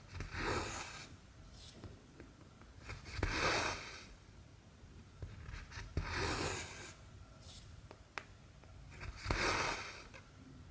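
Cotton embroidery thread being drawn through cross stitch fabric, four swishing pulls about three seconds apart, with a few light clicks of the needle between them.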